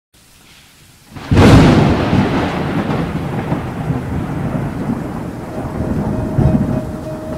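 A sudden thunderclap about a second in, then rolling thunder rumbling over steady rain, swelling again near the end.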